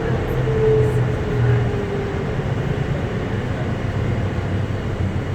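Inside a moving automated airport people-mover tram: a steady low running rumble with a motor whine that drops slightly in pitch and fades out about two seconds in as the tram slows toward the station.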